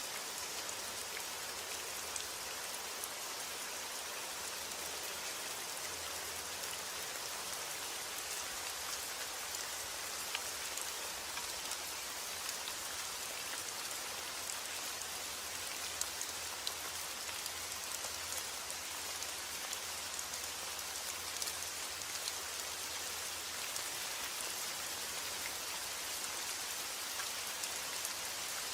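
Steady rain falling, an even hiss of drops with scattered small drop ticks.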